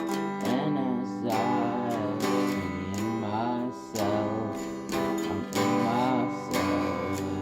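A song with strummed acoustic guitar and a voice singing a wavering melody over it.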